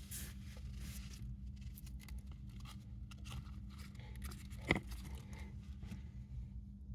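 A hamster rustling and crunching, heard as light crackles and scratches with a sharper click about five seconds in, over a steady low hum.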